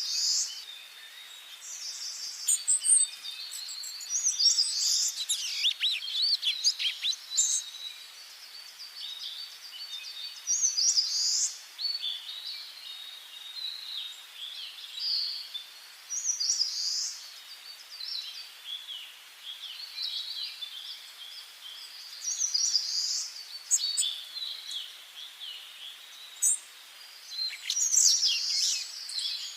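Several songbirds singing and chirping in short phrases throughout, high-pitched, over a faint steady background hiss.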